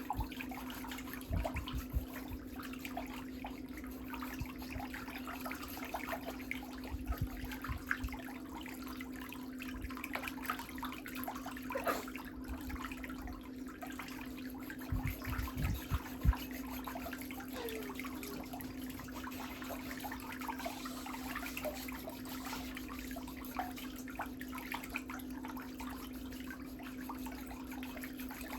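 A steady low hum under dense fine scratching and crackling, with a few low thumps scattered through, as of pedicure work on toenails.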